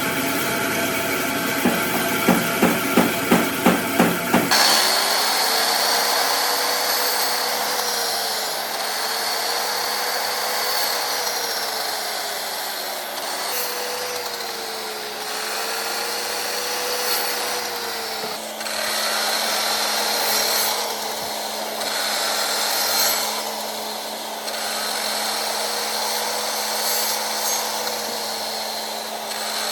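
Woodworking power tool running steadily on wood, its pitch wavering slightly under load. About four seconds in it cuts abruptly from a faster pulsing sound of about four beats a second to the steady run.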